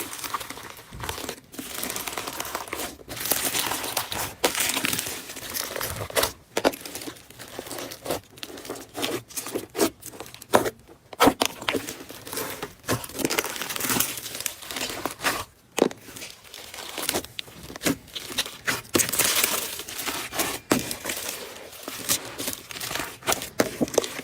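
Slime being squeezed, stretched and kneaded by hand, giving off irregular crackling and popping clicks throughout.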